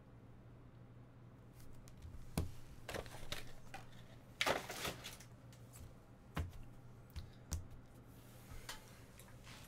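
Scattered light clicks and taps of small objects being handled on a desk, with a short rustle about halfway, over a low steady hum.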